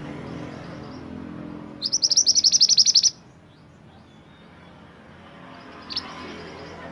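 Mantenan gunung songbird singing: a loud, fast trill of rapidly repeated high chirps lasting just over a second, starting about two seconds in, then one short chirp near the end.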